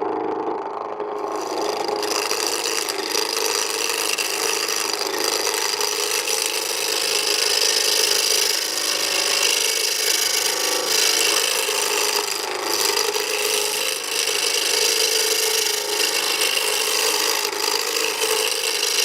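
A turning tool taking a roughing cut on square pine stock spinning on a wood lathe: a continuous rasping cut as the tool knocks down the corners of the blank toward round.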